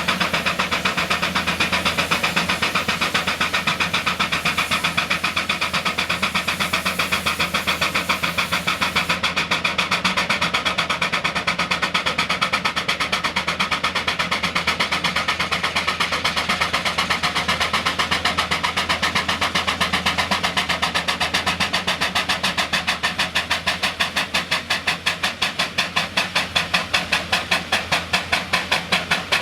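Steam traction engine working under load on a pull, its exhaust chuffing in a fast, even rhythm that slows toward the end.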